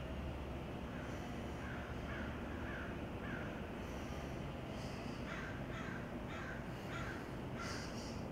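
A bird calling in two runs of short repeated calls over a steady background hiss: four calls about half a second apart, then after a pause a second run of about five.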